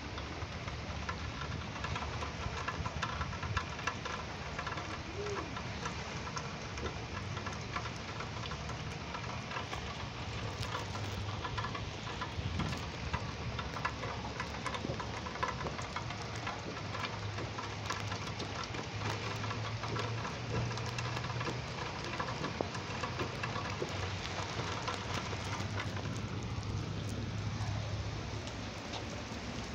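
Heavy rain pattering on wet pavement, a dense steady hiss of many small drop ticks, with a steady low hum underneath.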